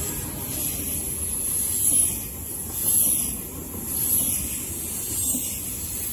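Ouigo TGV Duplex double-deck high-speed train passing close by: a steady rolling hiss of wheels on rail, swelling about once a second as the carriages go by.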